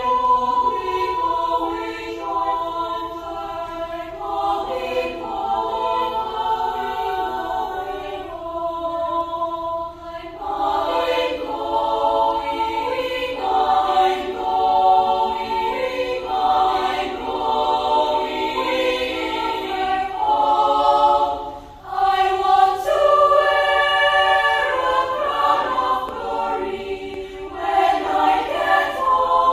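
Children's choir singing sustained chords in several parts, with brief pauses between phrases about a third and about three-quarters of the way in.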